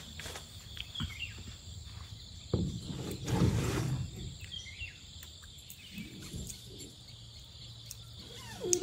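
Forest ambience with a steady high insect drone, broken by a few clicks and a louder stretch of knocks and rustling about two and a half to four seconds in.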